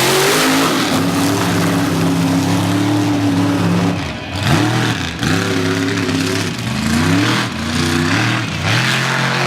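Mega mud truck's engine running hard at high revs, its pitch sagging and climbing back several times as the throttle is lifted and reapplied during a freestyle run.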